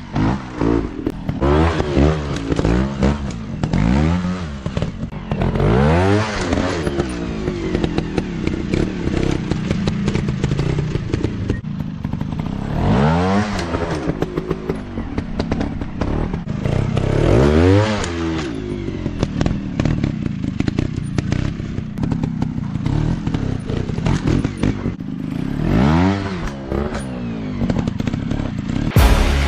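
Dirt bike engines revving up and falling back again and again, with scattered knocks and clatter.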